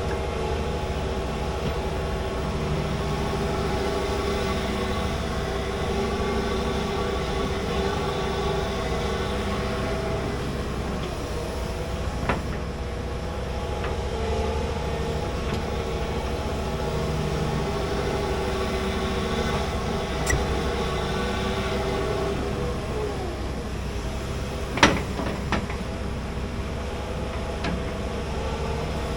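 Large excavator running steadily under work, its engine note joined by a whine that shifts in pitch as it works. A few sharp metallic clanks, the loudest near the end.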